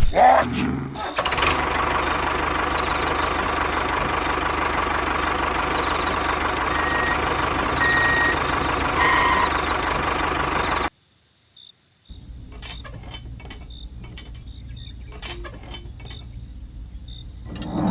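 An engine running steadily, with a few short beeps partway through, cutting off abruptly after about eleven seconds. After a second of silence a quieter steady mechanical hum follows, with scattered clicks.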